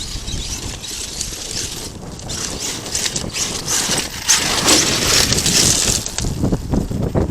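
Arrma Kraton 8S RC truck running over rocky, gravelly ground: tyres crunching and scattering stones, with a rough, uneven clatter that swells louder about four seconds in.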